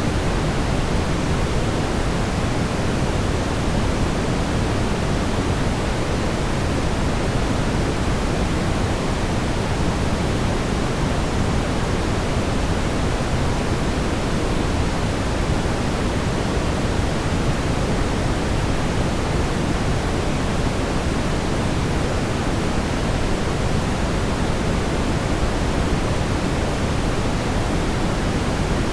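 Steady brown noise: an even, unchanging rumbling hiss, strongest in the low end and fading toward the top, played as a baby-soothing sleep sound.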